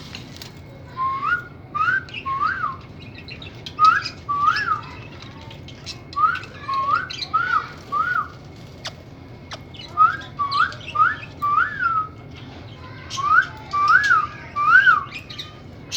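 Parrot whistling: short clear notes that each rise and fall, in quick clusters of two to four, repeated five times.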